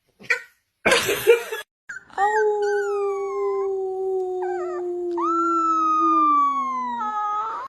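Dog howling: a long drawn-out howl that sinks slowly in pitch over about five seconds, with a second, higher howl starting about five seconds in. A short harsh noise comes about a second in, before the howl.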